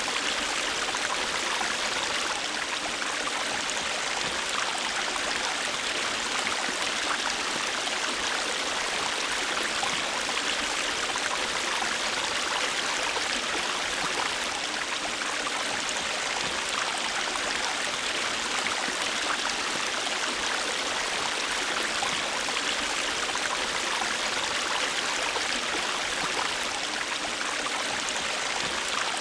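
River water flowing over stones: a steady, unbroken rush of running water with fine splashing and trickling.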